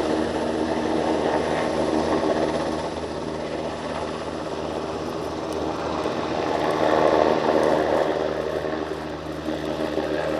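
NH90 helicopter flying its display, its rotor and turbine engines making a steady roar. The sound grows louder about seven seconds in, then eases off.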